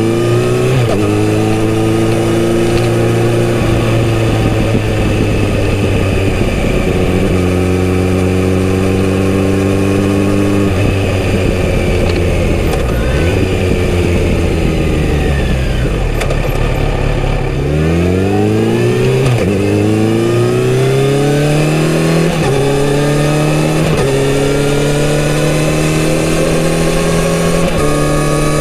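Kawasaki Z900RS inline-four with a full-system exhaust pulling through the gears, the engine note climbing and stepping down at each upshift. About halfway through it eases off to a low, steady idle-like note, then revs up hard again and runs through several more quick upshifts.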